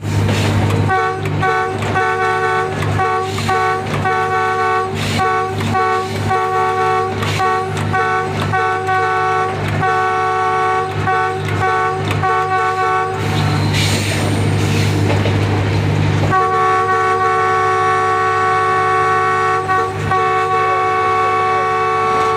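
ZCU-30 diesel locomotive's multi-tone horn played as a quick rhythmic series of short toots, over the low drone of the engine. After a few seconds of louder engine and rail noise, the horn comes back about sixteen seconds in as one long steady blast.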